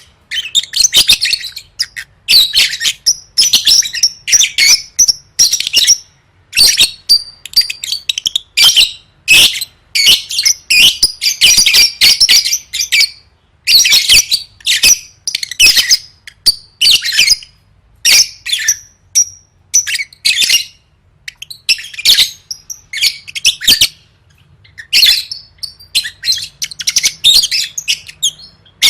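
A lovebird in full, continuous song (gacor): long runs of rapid, high-pitched chattering trills in bursts of a second or two, with a brief pause about two-thirds of the way through.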